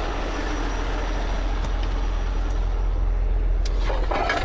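Heavy tow truck's diesel engine running steadily, a constant low rumble, with a couple of short metallic clicks near the end.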